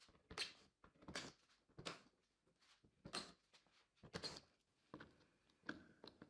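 Faint, irregular clicks and scrapes, roughly one every half second to second, from a T25 Torx bit working the screws of a car's plastic underbody cover.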